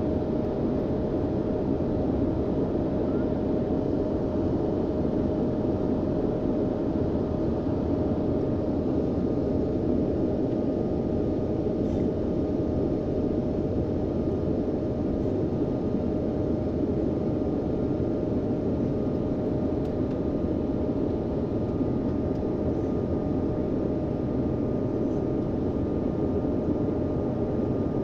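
Steady cabin noise of an airliner in flight during descent: an even rush of engine and airflow noise with a constant hum-like tone running through it.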